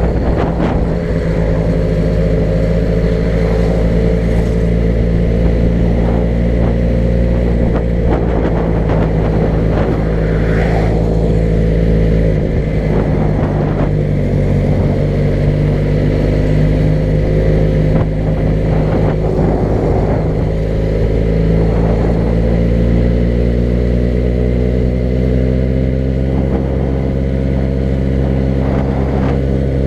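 Car engine running steadily while driving, its low hum shifting slightly in pitch as the speed changes, with road noise.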